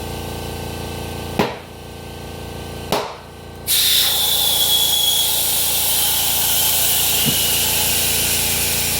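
A steady mechanical hum broken by two sharp knocks about a second and a half apart, then a loud, steady hiss from about four seconds in, with a faint high whistle that sinks slightly in pitch.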